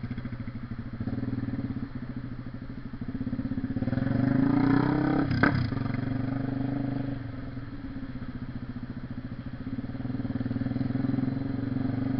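Honda CB 300R's single-cylinder engine running through its exhaust, its note rising in pitch and loudness about four seconds in as it accelerates, with a sharp crack a little after, then settling to a steady pulse and picking up again near the end.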